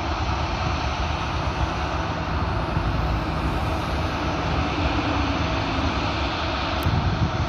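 Jet airliner engine noise, a steady rumble with a short click near the end.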